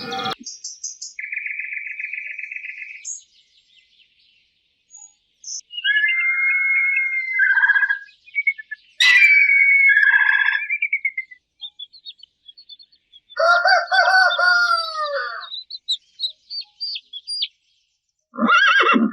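A series of separate bird calls with pauses between them. The later ones slide down in pitch. Near the end a short, louder call of a different kind begins.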